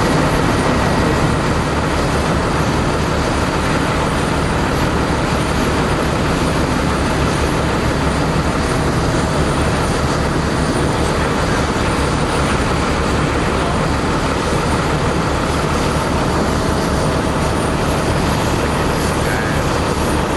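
Jet airliner engines running steadily, a loud, even roar with no change in level.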